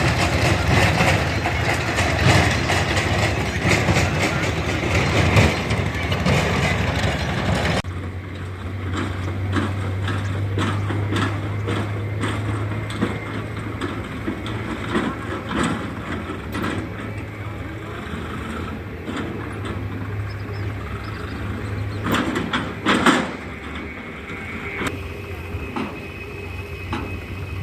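Tractor engine running, loud and rough at first, then, after an abrupt change about a third of the way in, a steadier low hum with scattered knocks and a louder clatter later on.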